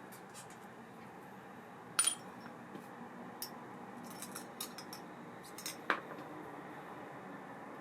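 Small metal parts clinking and tapping on a hard work surface: a sharp ringing clink about two seconds in, a scatter of lighter ticks, and another sharp clink near six seconds.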